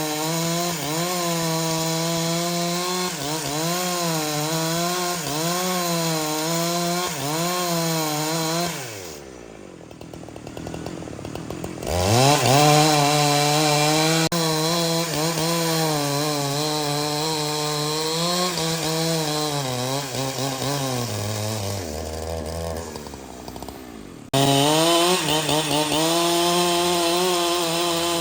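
Two-stroke chainsaw running at high revs while cutting wood, its pitch wavering under load. About nine seconds in the revs fall away, and they climb back up about three seconds later. Near the end the revs sag again, then the saw is suddenly back at full cutting speed.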